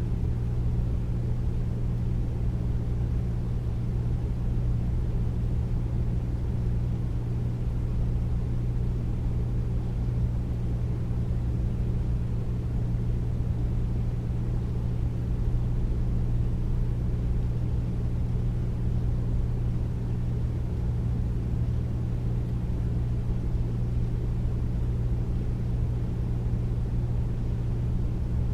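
Air conditioner running steadily: a deep, even hum and rumble with little high hiss, unchanging throughout.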